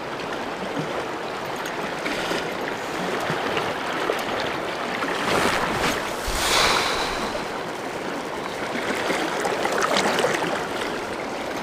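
River water flowing, a steady rushing that swells a little louder about halfway through and again near the end.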